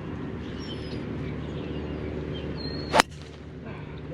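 A golf club striking a ball off the tee, one sharp crack about three seconds in, over a steady low hum and faint bird chirps.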